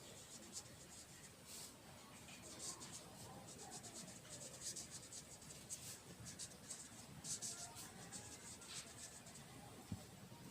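Faint scratching of handwriting, in short irregular strokes.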